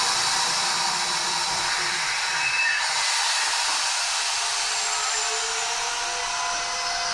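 Inside an electric commuter train coming to a halt: the low running rumble dies away about two to three seconds in, leaving a steady airy hiss with a few faint electrical tones as the train stands.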